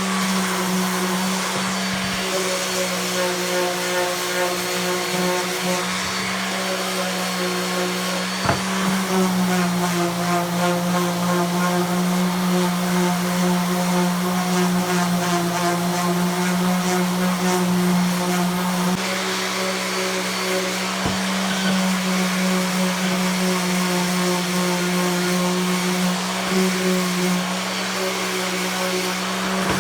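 Electric sander running steadily on wood pieces, a constant motor hum with small shifts in pitch as it is pressed and moved, and a couple of brief knocks.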